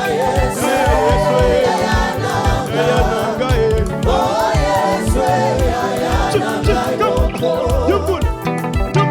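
Live gospel praise music: a lead singer with backing vocals sings over a band with a fast, steady bass and drum beat.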